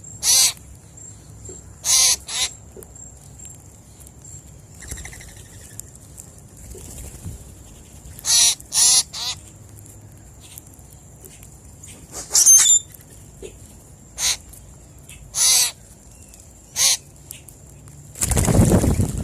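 Short, harsh, crow-like bird calls repeated about a dozen times at irregular intervals, with a thin steady high whine underneath. Near the end comes a loud rush of noise lasting about a second.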